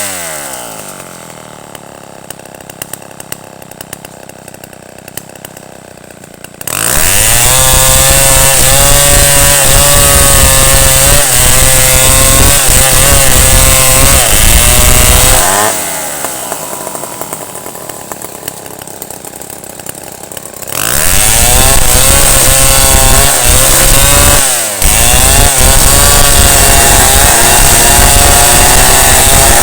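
Chainsaw engine dropping to idle at the start, then opened up to full throttle about seven seconds in. It falls back to idle for several seconds past the middle, then runs at full throttle again to the end, with a brief dip in revs near the end.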